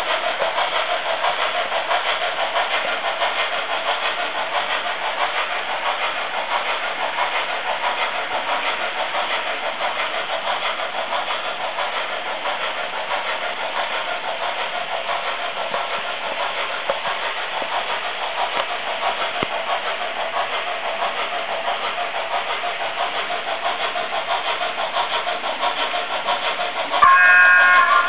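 Märklin model train running on its track, a steady running noise throughout. Near the end a short pitched whistle sounds, lasting about a second.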